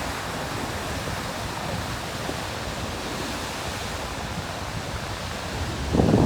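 Ocean surf washing over a rocky shore, a steady, even hiss of churning water. Right at the end it swells much louder with a deep rumble.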